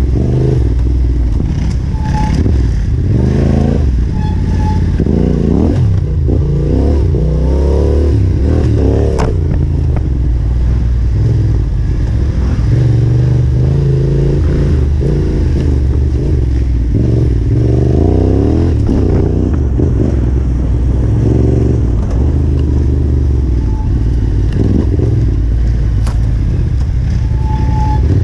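Yamaha Ténéré 700 motorcycle's parallel-twin engine revving up and down as the throttle is opened and closed on rough off-road ground, with clatter and knocks from the bike over the terrain.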